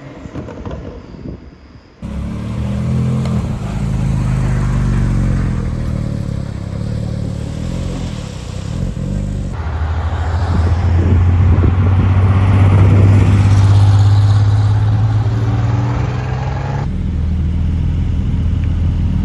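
Porsche sports car engines in a run of short cut-together clips: a fading engine for the first two seconds, then engines running loud with a steady low note, the sound changing abruptly about two, ten and seventeen seconds in, loudest in the middle.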